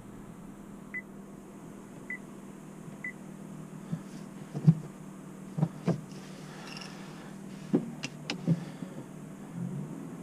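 Inside the cabin of a 2018 Honda Accord Sport 2.0T, its four-cylinder turbo engine idles with a steady low hum. Short electronic chimes sound three times, about a second apart, in the first few seconds, then a series of clicks and knocks from cabin controls follows.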